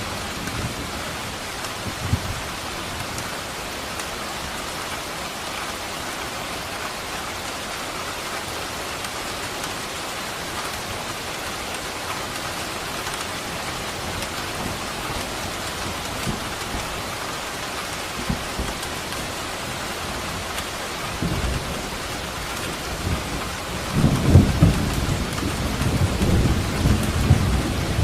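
Steady heavy rain hissing, with distant thunder giving short low rumbles, then a long, loud rolling rumble of thunder building up near the end.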